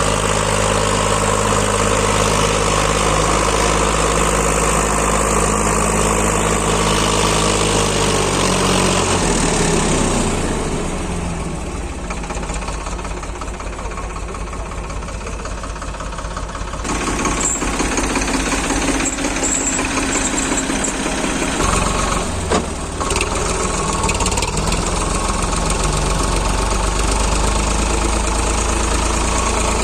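Diesel tractor engine running under load, its pitch falling as it slows down about eight to ten seconds in. It stays quieter for several seconds, then picks up again with a brief knock a few seconds later and settles back into steady running.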